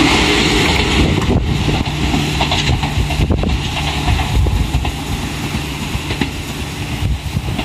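Enshu Railway electric train 1002F running past on its rails, the last car going by close and the sound fading as the train draws away. Wind buffets the microphone as it fades.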